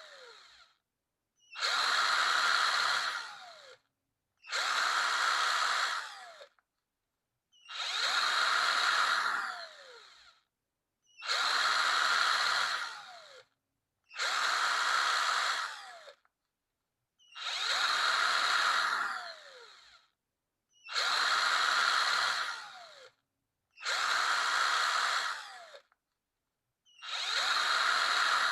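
Power drill run in repeated short bursts of about two seconds, roughly every three seconds, each ending with a falling whine as the motor spins down after the trigger is released.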